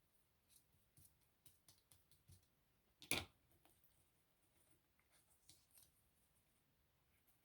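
Faint handling sounds of paper and small craft pieces being worked by hand, with scattered light clicks and rustles and one short sharp tap, as of something set down on the table, about three seconds in.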